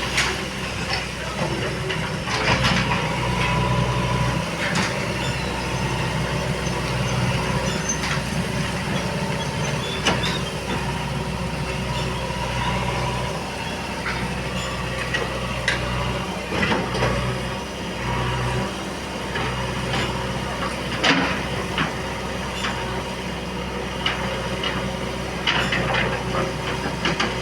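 Heavy diesel engine of earthmoving machinery running steadily, with scattered clanks and knocks every few seconds.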